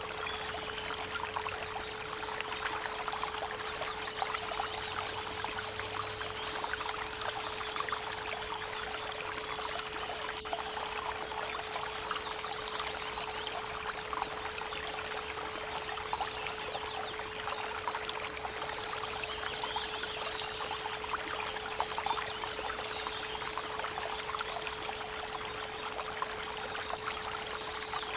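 A creek babbling steadily, with a steady 432 Hz pure tone held underneath it the whole time. Short high bird chirps come in a few times, around nine seconds in and again near the end.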